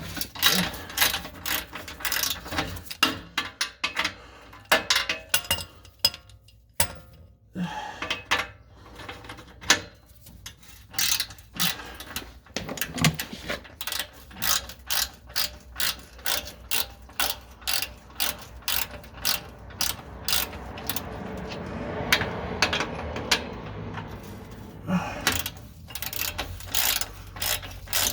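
Hand socket ratchet clicking in repeated strokes while loosening bolts on a car's exhaust, worked by hand in place of an impact wrench. The clicks come in runs of about two to three a second, with a stretch of steadier noise about three-quarters of the way through.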